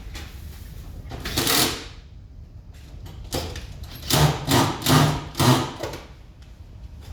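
A small power tool, such as a cordless screwdriver, run in short bursts while the parts of a ceiling cassette air conditioner are fastened back together: one brief burst, then four quick bursts a couple of seconds later.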